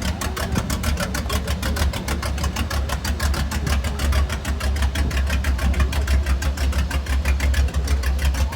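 Car engine idling with a deep, even, rapid throb, about ten pulses a second.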